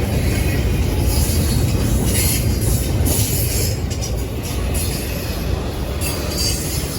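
Intermodal freight train rolling past at close range: a steady, loud rumble of wheels on rail with hissing and rattling from the cars. Wheel flanges begin to squeal in high thin tones near the end.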